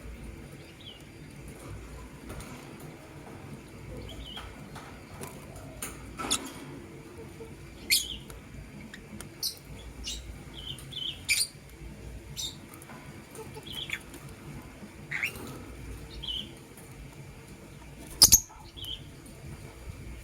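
Lovebirds, a blue opaline and a green masked lovebird, giving short, high chirps every second or so. A few sharp clicks come between them, the loudest near the end.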